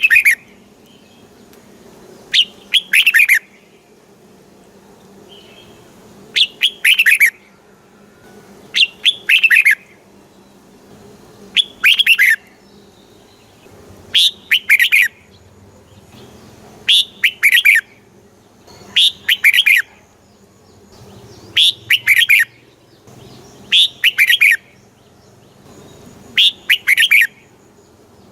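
Red-whiskered bulbul singing short, loud song phrases, one about every two and a half seconds.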